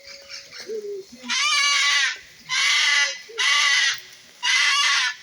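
Loud, wavering animal calls, four in a row about a second apart, each well under a second long, strained and screech-like.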